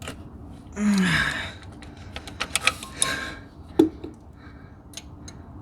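Scattered metal clicks and clinks of hand tools working at a stuck diesel injector, with a short falling grunt of effort about a second in and one sharp clank near four seconds.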